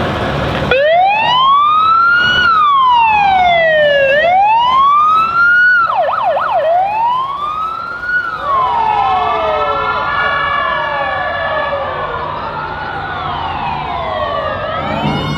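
Emergency-vehicle siren wailing, its pitch rising and falling in long slow sweeps, with a brief fast yelp about six seconds in. From about eight seconds on, a second wailing siren overlaps it. The siren starts suddenly just under a second in.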